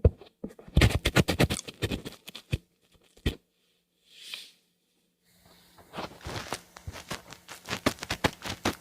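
Close-miked ASMR trigger sounds: quick runs of sharp taps and clicks, a soft hiss swelling and fading about four seconds in, then dense crackling clicks.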